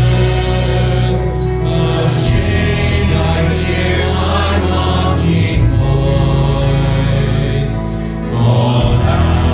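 A congregation singing a slow hymn together over sustained instrumental accompaniment, with long held notes.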